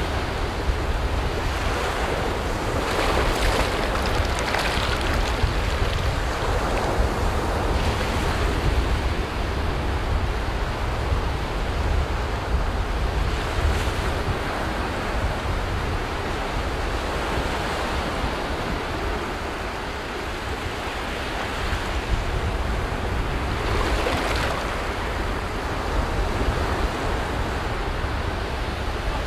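Sea waves breaking and washing up a beach as a continuous surf, swelling louder with bigger breakers about three, five, eight and twenty-four seconds in. Wind rumbles on the microphone underneath.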